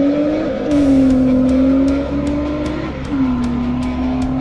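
Off-road Jeep's engine accelerating hard up a dirt track. The note rises in pitch and drops sharply twice as it shifts up through the gears.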